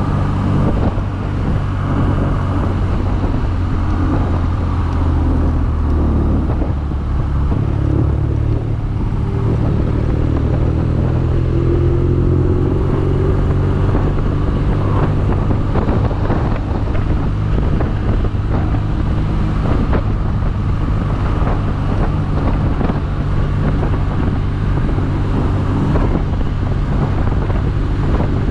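BMW R nineT's 1170 cc boxer twin running steadily while the motorcycle is ridden, with a faint rise in engine pitch in the middle, over road and wind noise.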